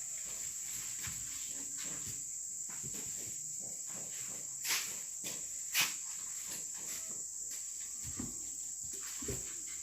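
A steady, high-pitched insect chorus, like crickets. Two sharp clicks or knocks come about five and six seconds in.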